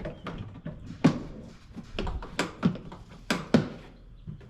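Handling of the vacuum's hard plastic parts and packaging during unboxing: a series of about six separate sharp clicks and knocks.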